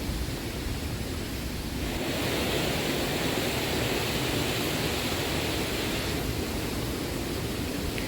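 Steady rushing of the flood-swollen river, a continuous even noise that grows fuller and brighter for a few seconds in the middle.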